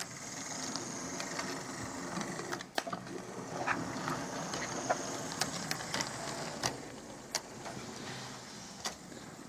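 Hornby Railroad model of the BR Standard Class 8 locomotive running along model track: a steady whirr of its small electric motor and gearing, with scattered sharp clicks from the wheels on the rails.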